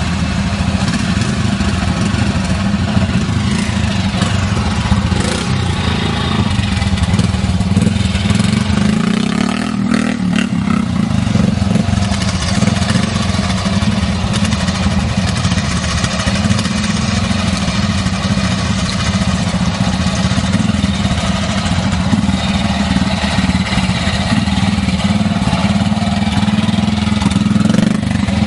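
A classic trials motorcycle engine running steadily at low revs, with a brief change in pitch about ten seconds in.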